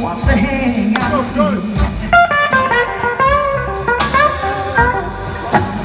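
Live blues band playing a slow blues: electric guitar plays bending lead lines over bass and drums.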